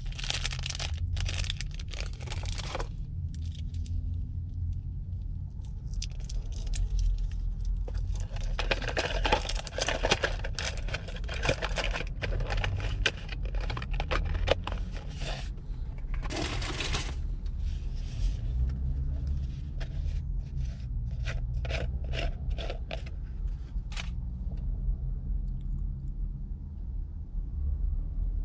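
Hands handling craft materials for a leaf decoration, with scraping, crinkling and tearing in several irregular bouts over a steady low hum.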